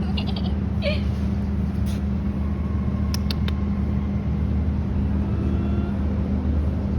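Steady low mechanical hum, with a few faint high chirps in the first second and a few sharp clicks about three seconds in.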